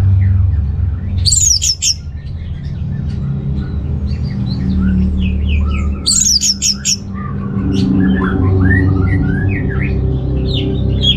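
Orange-headed thrush singing a varied string of short whistled notes, broken twice by a burst of rapid, very high twittering, over a steady low hum.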